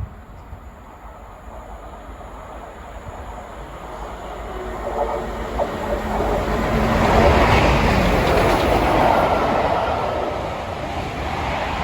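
LMS Princess Coronation class steam locomotive 6233 'Duchess of Sutherland' running light engine at speed past the listener: the rumble and clatter of the engine and tender on the rails grow louder, peak about seven seconds in, then fade as it goes by.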